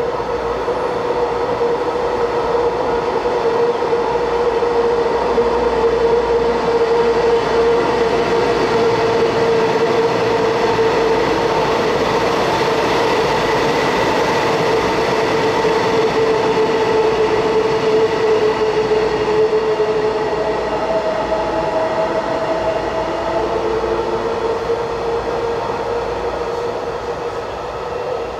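Taiwan Railway electric commuter train running along an elevated station platform, with a loud, steady motor hum whose main tone sinks slightly in pitch over most of its length. A second, higher tone comes in briefly near the end.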